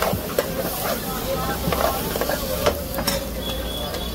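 Egg bhurji sizzling in a hot pan while a spatula stirs it, knocking against the pan at irregular moments.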